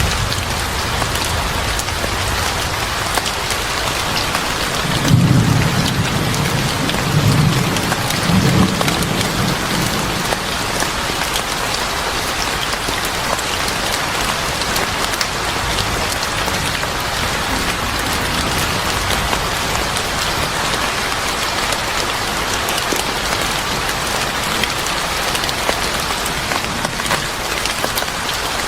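Steady heavy rain. About five seconds in, a low rumble of thunder swells three times over roughly four seconds, then fades back under the rain.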